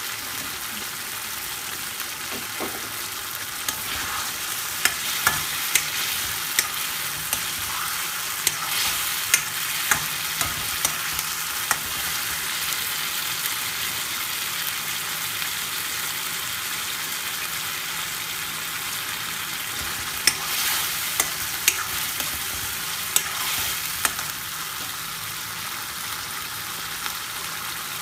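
Chicken curry sauce sizzling and frying in a karahi, with a metal ladle stirring through it and knocking and scraping against the pan in two spells of sharp clicks. The base gravy just added is cooking down in the hot pan.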